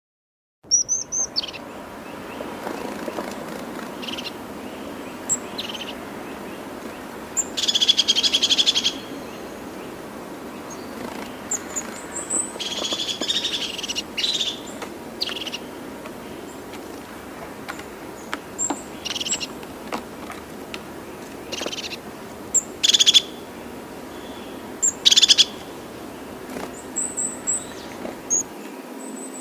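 Several birds chirping and calling: short high chirps and a few longer rapid trills over a steady low outdoor background. The sound starts abruptly about half a second in.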